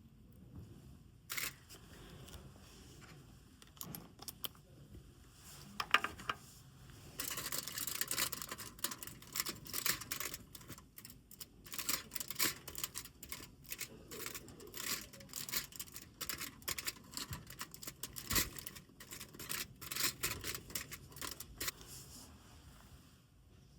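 Irregular small clicks and clinks, then a dense run of crackly ticking from about seven seconds in that tails off near the end: small objects being handled.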